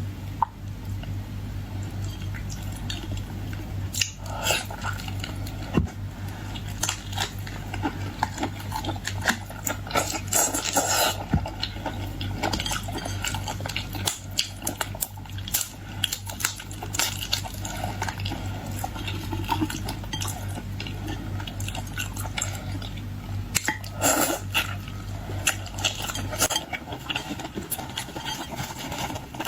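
Eating boiled seafood: scattered clicks and clatter of shells and utensils with wet chewing and handling sounds, over a steady low hum that stops near the end.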